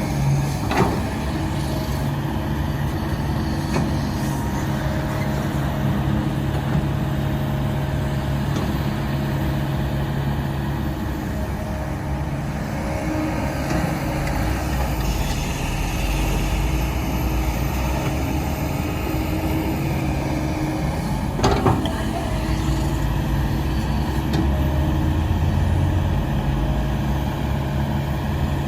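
Heavy diesel engine of a construction machine running steadily, working harder for a stretch in the middle, with two sharp metallic knocks, one near the start and one about three quarters of the way through.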